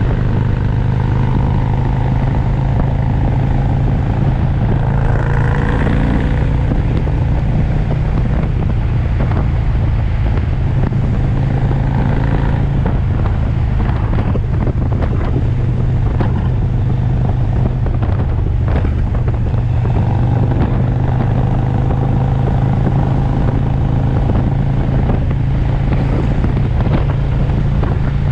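V-twin cruiser motorcycle engine running steadily at cruising speed, a constant low drone under the rush of the ride.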